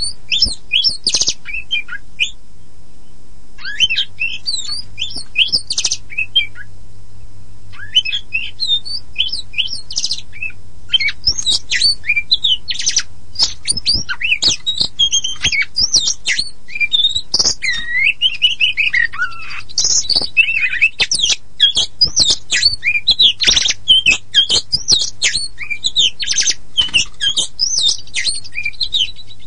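Oriental magpie-robin (kacer poci) singing a rapid, varied song of whistles, trills and harsh squawky notes. Two short pauses come in the first eight seconds, and after about ten seconds the song runs on almost without a break.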